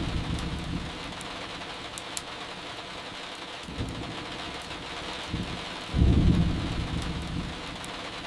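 Steady rain with rolls of thunder: one rumble fading as the sound begins, a smaller one around four seconds in, and a loud low roll about six seconds in that dies away over a second or two. A few faint sharp crackles of burning firewood sound over the rain.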